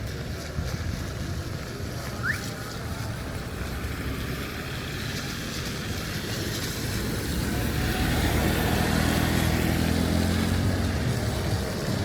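Road traffic noise, with a motor vehicle's engine growing louder and passing close in the second half.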